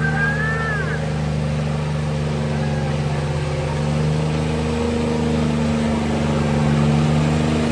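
Diesel pickup truck engines running steadily at a loud, high idle. The engine note steps up slightly about four seconds in.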